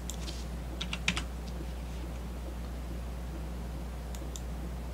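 A few keystrokes on a computer keyboard: a quick cluster about a second in and two more near the end, over a steady low hum.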